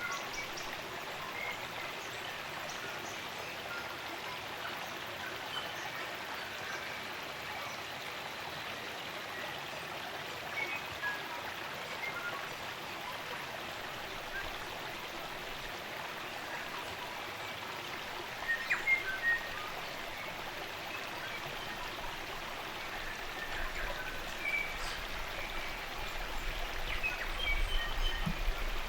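Spring-fed stream running steadily, with scattered short chirps and calls of New Zealand native forest songbirds, a small burst of them about two-thirds of the way through. A low rumble builds under the water sound near the end.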